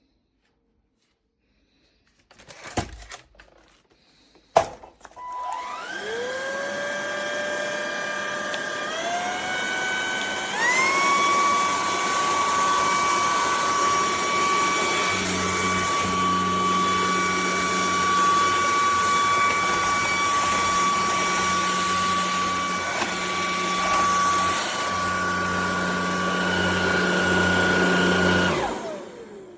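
ElecKeys K10 cordless stick vacuum's motor, preceded by two clicks: it spins up with a rising whine that steps up in pitch a few times, as between power levels, then runs steadily at high speed before switching off and winding down near the end. A lower hum joins about halfway through.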